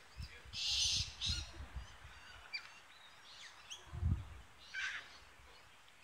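Wild birds giving a few short chirps and calls, with a brief hissy burst about a second in and scattered low thuds.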